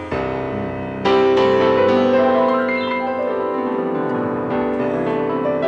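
Piano playing the closing instrumental bars of a ballad, with a full chord struck about a second in and left to ring.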